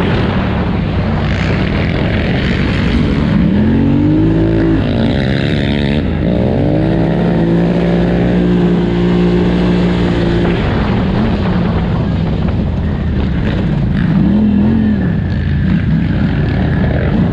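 2018 Polaris Scrambler 1000 XP ATV's V-twin engine under racing throttle, revving up and dropping back several times, held steady for a few seconds in the middle, over a constant rush of wind and rough-ground noise.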